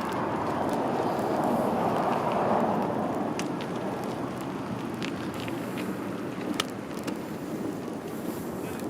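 Steady rushing of wind and tyre noise while riding a bicycle, swelling slightly a couple of seconds in, with a few scattered light clicks.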